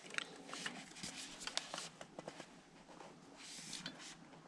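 Faint scattered light clicks and rustling from hand tools and small parts being handled.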